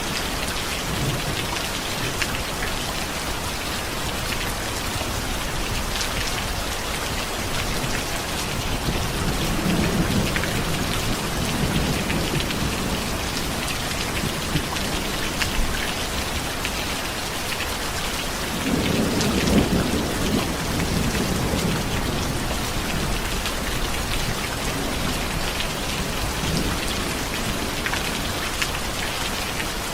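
Steady rain falling, with low rolls of thunder: one rumble about a third of the way in and a louder, longer one about two-thirds through.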